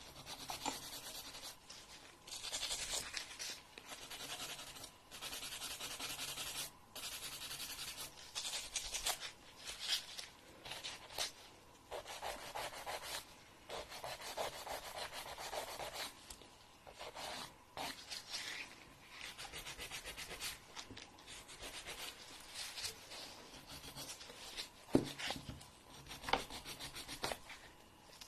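Fingernails being filed, in a series of raspy strokes a second or two long with short pauses between them.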